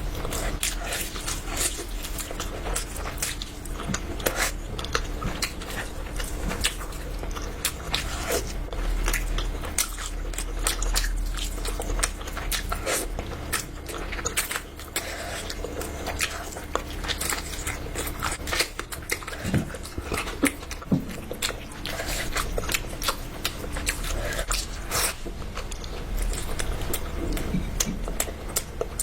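A person chewing and biting food close to the microphone, with many irregular sharp clicks, over a faint steady low hum.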